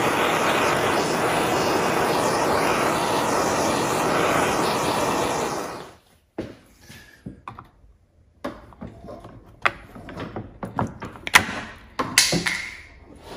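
Propane torch flame with a steady rushing hiss, heating a faded steering wheel to bring its shine back. It cuts off about six seconds in, followed by scattered light clicks and knocks.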